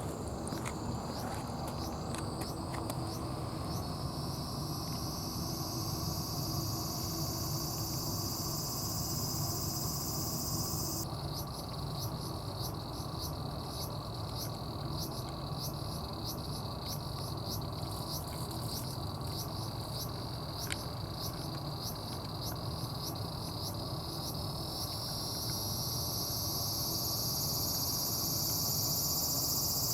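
Insects calling in a steady outdoor chorus: many rapid sharp ticks and a high hissing drone that slowly rises in pitch, cuts off about a third of the way in and comes back near the end, over a steady low rumble.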